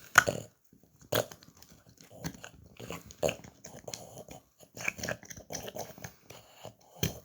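Boston terrier crunching a bone: irregular sharp cracks and gnawing as it chews, the loudest cracks just after the start and about a second in.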